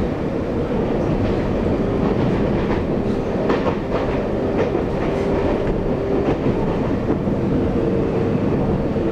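Onboard running sound of a Taiwan Railways EMU800 electric multiple unit at speed: a steady rumble of wheels on rail with a faint steady hum, and a few clicks over rail joints around the middle.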